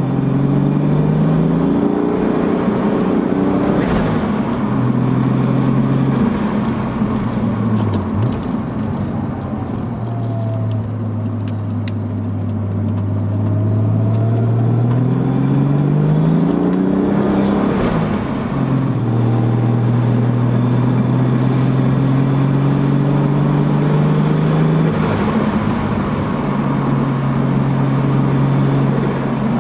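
1992 Toyota Supra Mk3's turbocharged 7M-GTE 3.0-litre inline-six, heard through its 3-inch HKS catback exhaust, driving through the gears. The engine note rises under acceleration, drops sharply at several gear changes, and holds steady while cruising in between.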